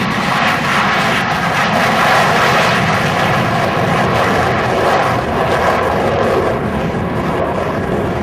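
Loud, steady engine noise from the USAF Thunderbirds' F-16 fighter jets, swelling slightly a couple of times.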